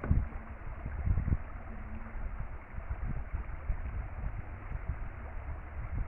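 Outdoor ambience: a steady rushing noise with irregular low rumbles and thumps.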